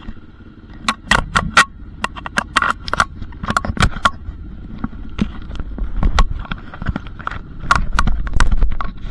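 Dirt bike out on a ride: a low rumble and a faint steady tone under many irregular sharp crackles and clicks. The rumble grows louder near the end.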